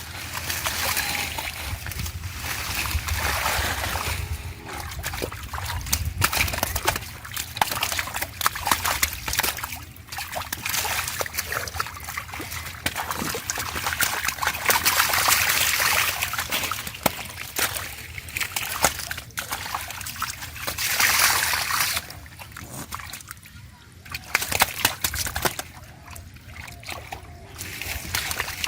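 Water splashing and sloshing irregularly as hands and bodies work in shallow river water, with quieter stretches near the end.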